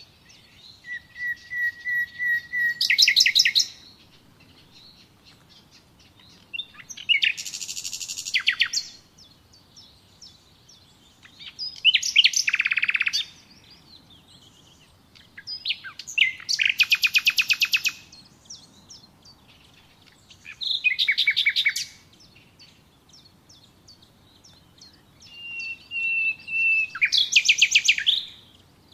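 A songbird singing six short song phrases, one about every four to five seconds. Several open with a held whistle and each ends in a fast, rattling trill of quick repeated notes.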